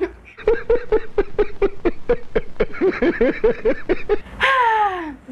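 A person laughing in a quick run of even ha-ha pulses, then a loud cry that slides steeply down in pitch near the end.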